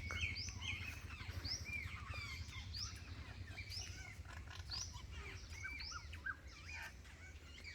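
A flock of jungle babblers (seven sisters) chirping: many short, overlapping calls that go on without a break, over a low steady hum.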